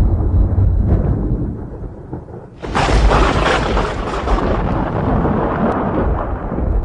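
Thunder in a rainstorm: a deep rumble dies down, then about two and a half seconds in a sudden close thunderclap cracks and rolls on in a long rumble that slowly fades.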